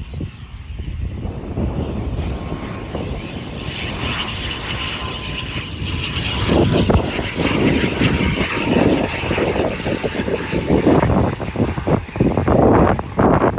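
ATR 72-600 twin-turboprop airliner's engines and propellers, growing louder as it passes, with a steady whine and hiss. From about halfway through, the sound is mixed with irregular gusts of wind buffeting the microphone.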